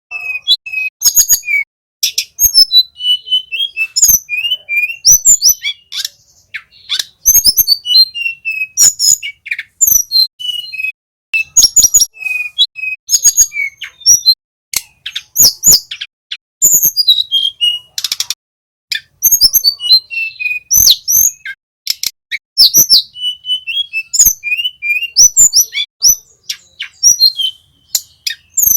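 Blue flycatcher song: quick, loud phrases of whistled and chirping notes that rise and fall in pitch, mixed with sharp clicky notes, repeating with only short gaps.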